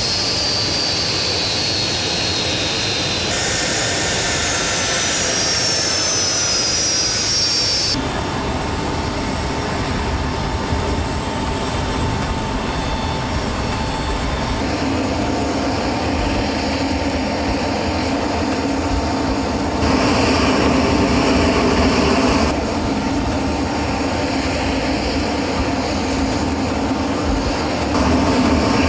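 Aircraft turbine engines heard in a run of cut-together clips. In the first few seconds a high turbine whine falls in pitch. After that the engines run steadily with a constant whine, and the level jumps up at each cut.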